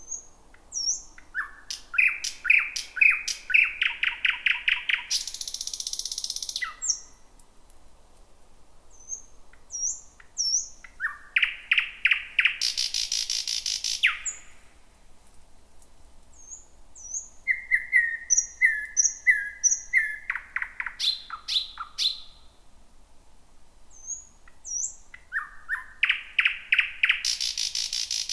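Thrush nightingale singing: four loud phrases a few seconds apart, each a run of rapidly repeated sharp notes ending in a harsh rattle. Short thin high whistles come in between.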